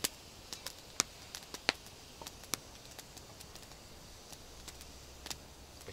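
Campfire crackling: scattered, irregular sharp pops and snaps from burning wood over a faint background hiss.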